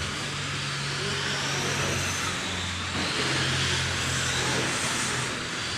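A pack of 1/10-scale electric RC dirt oval late models with 21.5-turn brushless motors racing around the track: a steady hiss of motors and tyres on dirt, with faint high whines that rise as cars accelerate, over a steady low hum.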